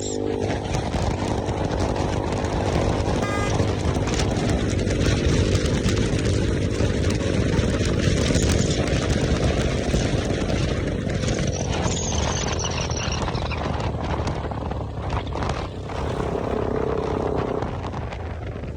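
A motorcycle running on the move, its engine sound mixed with steady wind rush.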